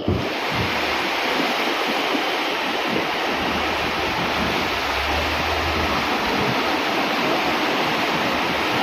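Steady rush of torrential rain and water running over a flooded street, with cars wading through the deep floodwater. A low engine hum sits under it in the middle.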